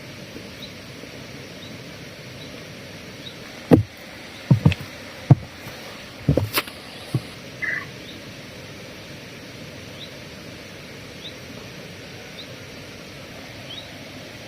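Steady outdoor background hiss with a faint, short, high chirp repeating about once a second. From about a third of the way in, a quick cluster of seven or eight sharp knocks and thumps comes and goes over roughly four seconds.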